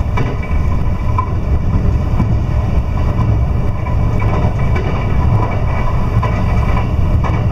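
Steady low running rumble of an electric commuter train heard from inside the passenger car, wheels rolling on the rails at speed.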